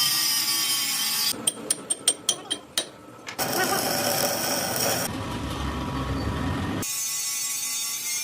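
Workshop tool sounds in short clips with hard cuts: a steady hiss, then a quick run of about eight sharp knocks, then more steady machining noise.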